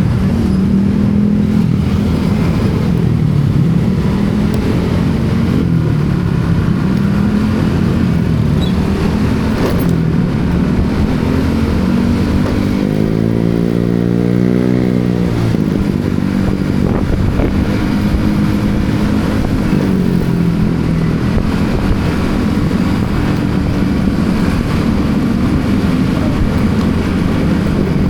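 Motorcycle engine running while riding, its note wavering with the throttle, under steady road and wind noise. About halfway through, a stronger engine note rises and falls over a couple of seconds.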